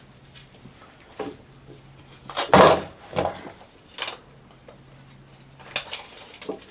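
Workbench handling noises: a few scattered knocks and clatters of tools and materials being picked up and set down, the loudest about two and a half seconds in, over a faint steady low hum.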